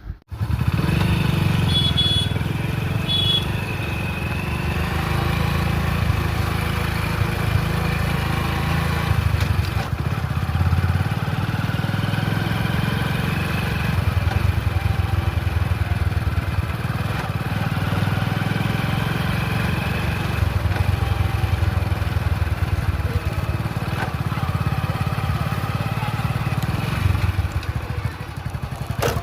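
Motorcycle engine running under way, its pitch rising and falling slowly with the revs, with two short high beeps about two seconds in.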